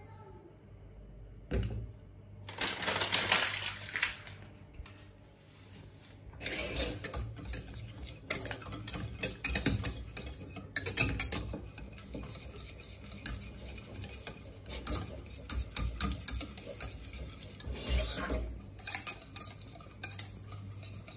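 A kitchen utensil clinking and scraping against a bowl as something is stirred, in irregular bursts. There is a longer scrape early in the stretch, then quick runs of clinks with short pauses.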